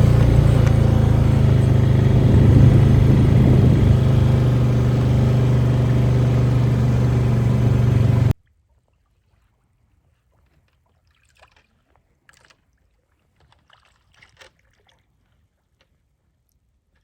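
Small boat motor running steadily at a constant speed, then cut off abruptly about eight seconds in, followed by near silence with a few faint ticks.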